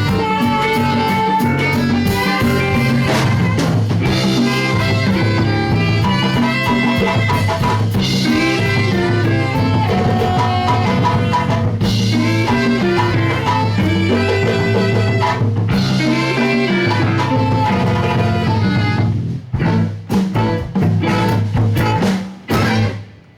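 Live band playing a song with drum kit and percussion. Near the end the music breaks into a few separate stop hits, then the song ends sharply.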